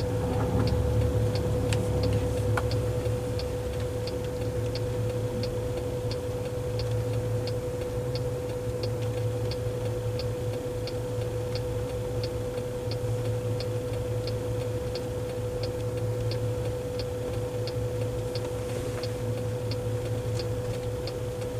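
A car's turn-signal indicator ticking evenly, about three ticks every two seconds, over a steady hum and low road rumble inside the cabin.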